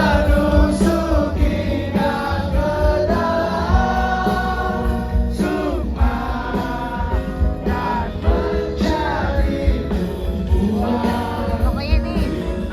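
Live band music with singing over a heavy bass, loud and continuous.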